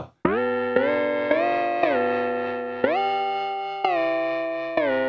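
Synthesizer-like melody of single pitched notes, each struck and fading. A new note comes roughly every half second to a second, several of them sliding in pitch at the onset.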